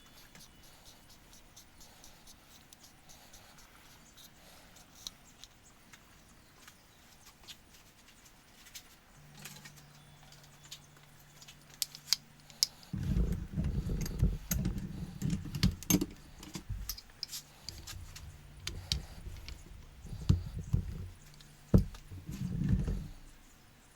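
Clatter of tools and metal parts as the rear shock is fitted back on the scooter: scattered sharp metallic clicks with heavy low thumps in several spells, starting about halfway in, over a faint steady hum.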